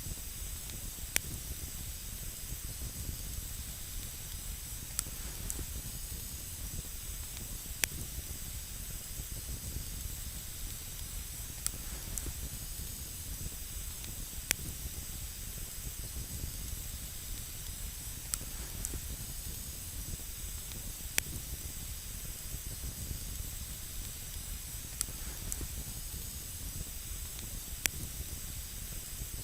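Wood campfire burning with a steady hiss and low rumble, and single sharp crackling pops every three or four seconds.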